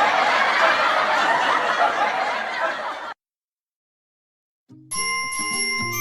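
Children's laughter and giggling, many voices together, cut off suddenly about three seconds in. A second and a half of silence follows, then the bright intro of a nursery-rhyme song starts, with bell-like chime notes over a bass line.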